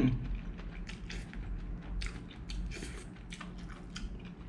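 A person chewing a mouthful of fried prawn noodles close to the microphone, with small irregular clicks and a fork working through the noodles in a plastic container.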